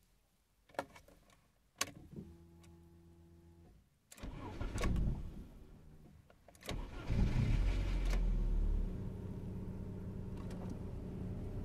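Rover 45 petrol engine being started from the driver's seat: a couple of clicks, then a brief electric hum as the ignition comes on. The starter cranks once without the engine catching, then cranks again; the engine fires about seven seconds in, runs fast for a moment and settles into a steady idle at about 1000 rpm.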